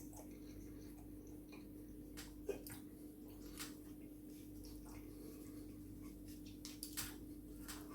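Close-up chewing and lip smacks from eating a chicken burger: scattered soft wet clicks, the loudest about two and a half seconds in, over a steady low hum.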